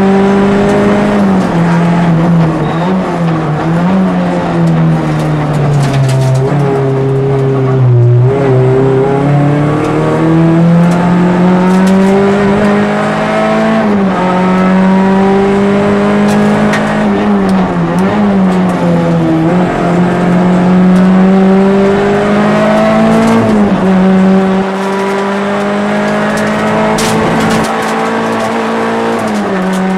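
A Peugeot 206 RC rally car's 2.0-litre four-cylinder engine, heard from inside the cabin and driven hard, revs climbing and falling with quick gear changes. It drops to lower revs twice, about eight and eighteen seconds in, as the car slows for bends.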